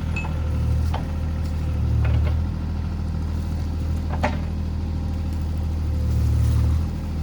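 CAT 303C CR mini excavator's diesel engine running steadily, swelling louder twice, with a few short sharp clacks or snaps over it, about one, two and four seconds in.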